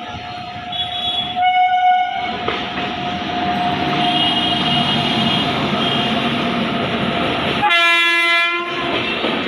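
An Indian Railways electric express train running through a station without stopping, its wheels rumbling on the rails, with two short horn blasts: one about a second and a half in and a second, fuller one near the end.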